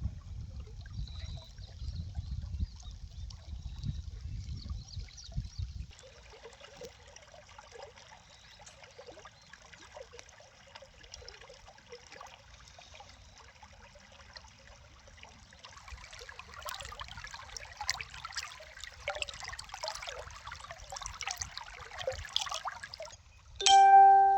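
Water trickling and splashing, growing busier after the middle, with a low rumble underneath for the first several seconds. Near the end a loud chime-like musical tone sounds.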